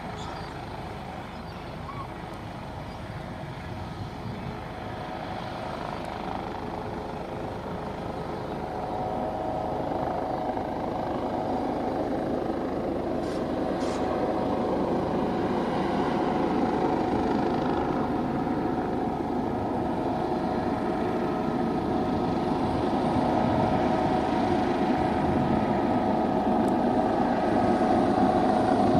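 Airbus H145 twin-engine helicopter running, its turbine whine and rotor noise steadily growing louder, with a steady whine coming in about a third of the way through.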